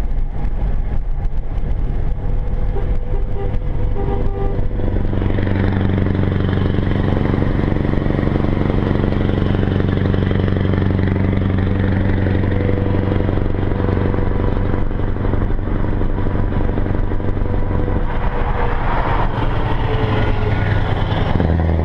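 Scania 164 480's V8 diesel engine running through an open, unsilenced exhaust pipe as the truck drives, a steady low drone that grows fuller about five seconds in.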